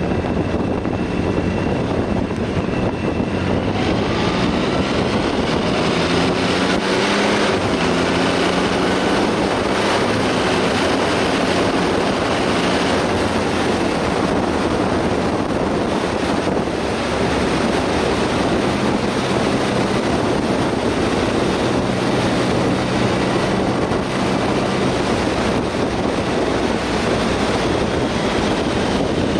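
Triumph Rocket 3 Roadster's three-cylinder engine running while riding, rising in pitch as it accelerates about five to eight seconds in, with wind rushing over the microphone.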